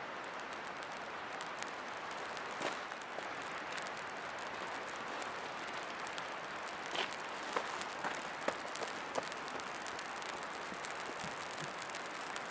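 River water rushing steadily, with a handful of short sharp clicks scattered over it, mostly in the second half.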